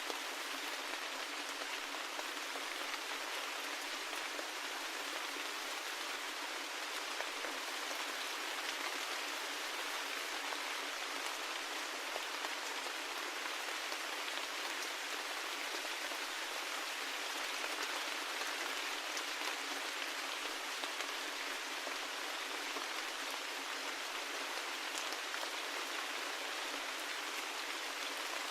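Steady rain falling, an even hiss that neither rises nor falls, with faint scattered drop ticks.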